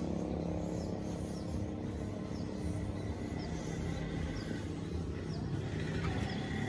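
Steady low mechanical hum, with faint, short high chirps from caged birds repeating every half second or so.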